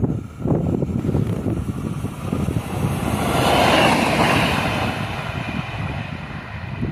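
TER regional train passing close at speed: its noise swells to a peak about four seconds in and then fades as it goes away. Heavy gusty wind noise on the microphone sits under it.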